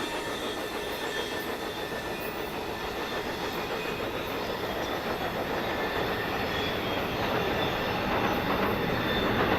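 Amtrak California Zephyr passenger train rolling past on a curve: a steady rumble of wheels on rail with a faint, thin, high wheel squeal, getting a little louder near the end.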